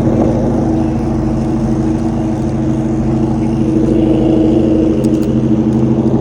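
A Jeep's engine idling steadily close by, an even, pulsing engine note with no revving.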